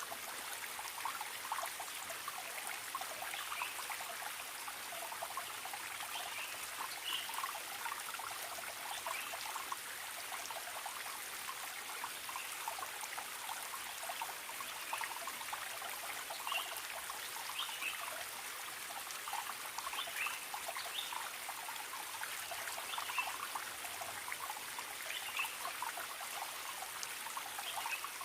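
Forest stream trickling and bubbling steadily over rocks, with many small splashing plinks over a constant rush of water.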